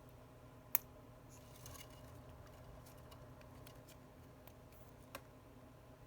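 Small tools and parts handled on a phone-repair bench: one sharp click about a second in, then faint scattered ticks and taps and a second smaller click near the end, over a steady low hum.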